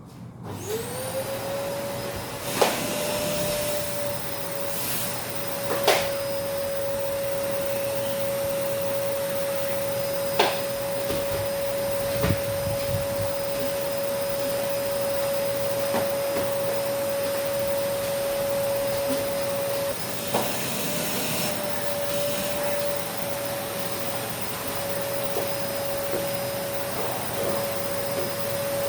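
Vacuum cleaner switched on, its motor whine rising in pitch during the first second and then running steadily. A few sharp knocks sound over it, the loudest about 2.5 and 6 seconds in.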